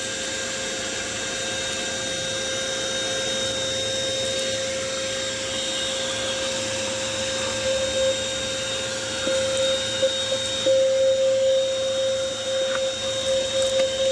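Small vacuum cleaner running with its hose and no brush, a steady whining hum as it sucks up dust, described as strong. About ten seconds in, the sound gets louder and uneven, with a few clicks.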